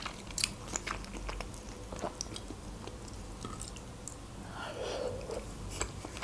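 Close-miked chewing of a mouthful of beshbarmak, boiled lamb and beef with flat noodles, with scattered small clicks and smacks of the mouth.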